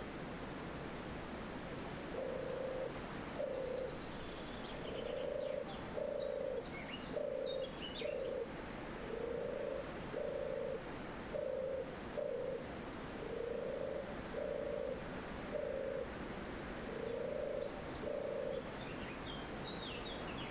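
A dove cooing, low notes given mostly in pairs over and over, over a steady rush of wind in the trees. A few faint high chirps from small birds come in now and then.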